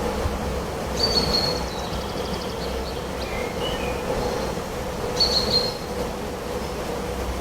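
Wild birds calling: short high chirps about a second in and again about five seconds in, with a few lower notes between. Under them runs a steady low rumbling drone with a constant hum.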